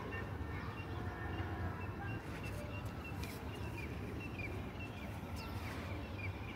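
A bird chirping: short high notes repeated about three times a second, starting about two seconds in, over a steady low outdoor hum.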